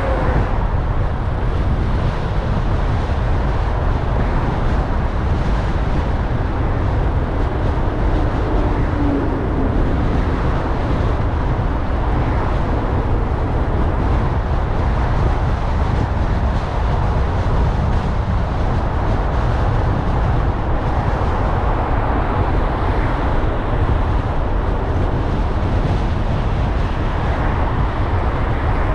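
A car driving through city traffic: steady road and engine noise, mostly a low rumble, that holds even throughout.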